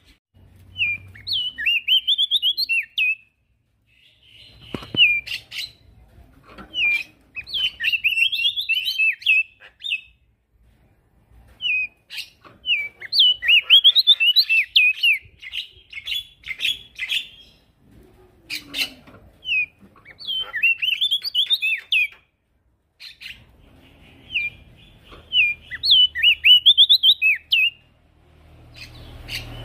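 Male prenjak daun singing: repeated phrases of rapid, high, twittering notes, each phrase lasting a few seconds with short pauses between.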